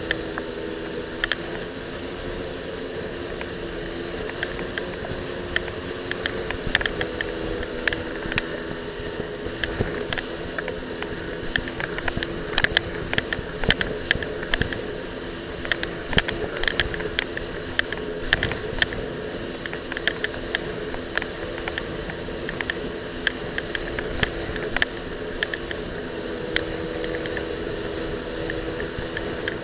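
Jet ski engine running at a fairly steady pitch, heard through a camera loosely strapped to the rider's life vest. Frequent sharp clicks and knocks come from the loose camera rattling against its mount.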